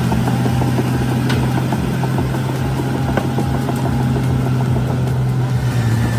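Heavy diesel machinery engine running steadily, with a low, even drone and a regular low pulsing.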